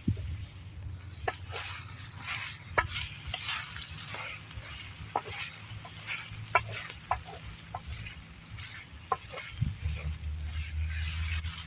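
Food frying in a pan over the campfire, a light sizzle broken by many short clicks and taps from a utensil stirring and scraping, over a low rumble.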